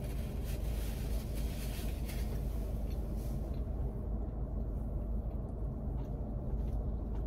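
Steady low rumble of a car idling, heard inside the cabin, with faint chewing sounds from eating a burrito.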